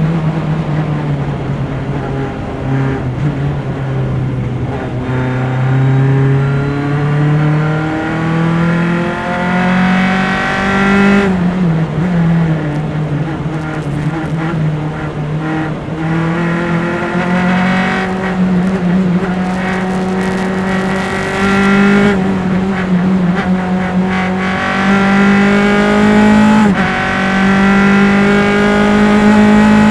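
Single-seater formula race car engine heard from its onboard engine microphones under hard acceleration. The engine note climbs steadily and drops back sharply three times: about a third of the way in, about two-thirds in, and a few seconds after that, as it shifts up through the gears.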